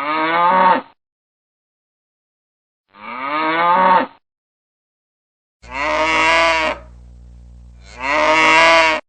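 Cow mooing four times. Each moo lasts about a second, with the pitch bending up and then down. The last two come from a different recording, with a steady low hum underneath them.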